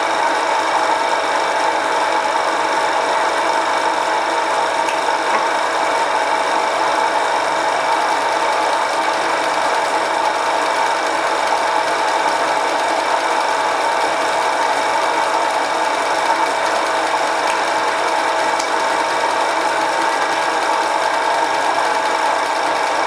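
Homemade mini lathe running under its 1 hp (750 W) single-phase motor, the spindle turning steadily: an even mechanical whine made of several steady tones over a constant rush, with no change in speed.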